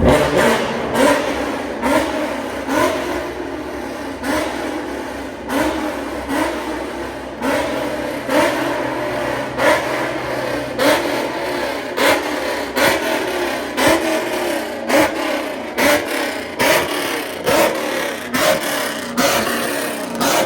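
Car engine revved over and over in short blips, about one a second, each rising in pitch and falling back.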